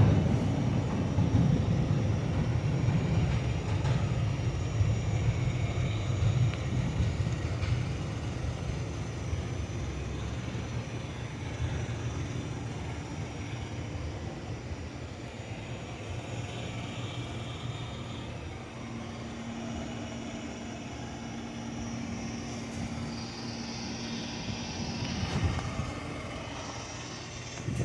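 A PATH subway train's low rumble fades away along the tunnel over several seconds. It leaves a steady low station hum, with a faint swell near the end.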